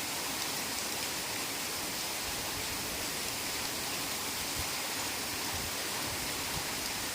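Heavy rain falling steadily on a forest, a dense, even hiss without let-up.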